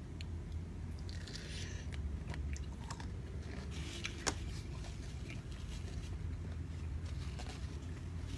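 A person chewing a fresh shrimp head, with small crunches, clicks and wet mouth sounds, over a steady low hum.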